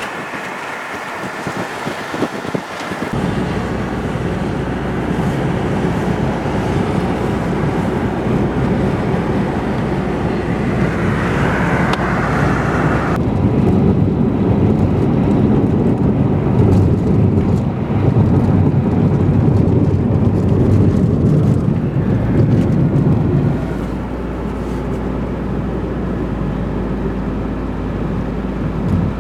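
A car driving along a highway: steady engine and tyre noise. The sound changes character about 3 s in, again about 13 s in, and drops slightly about 23 s in.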